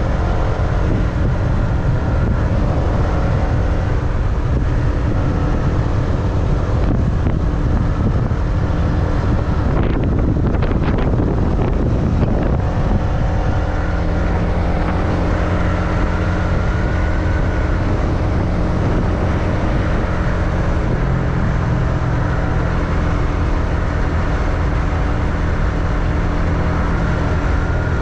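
Motorbike engine running steadily under way, with wind rumbling on the microphone; the sound turns rougher for a couple of seconds about ten seconds in.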